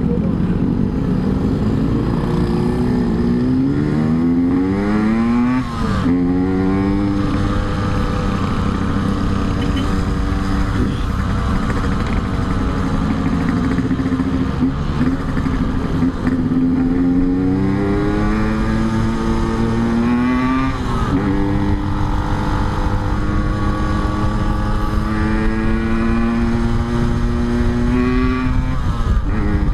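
Yamaha RX-King's two-stroke single-cylinder engine pulling under way, its pitch climbing and dropping back at gear changes: once about six seconds in, again around twenty-one seconds, and near the end. Wind rushes on the microphone throughout.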